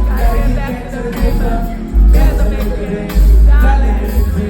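Live band music with heavy bass and bright jingling percussion, with sung vocal lines over it.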